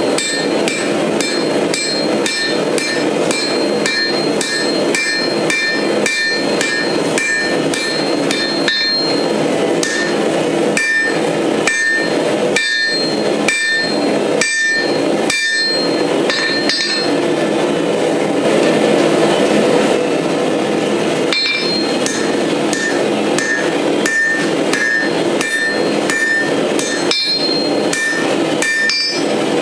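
Hammer forging steel on an anvil: a quick run of blows, about three a second, each with a high metallic ring from the anvil. The blows stop for a few seconds past the middle and then pick up again, over a steady rushing noise.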